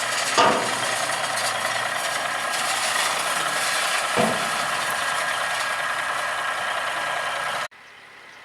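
A truck engine running steadily, with a couple of brief knocks. It cuts off abruptly near the end.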